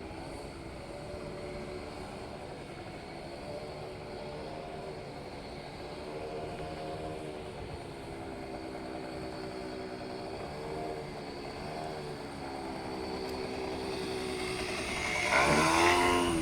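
Motorcycle engine running, its pitch rising and falling gently with the throttle, then revving up louder near the end.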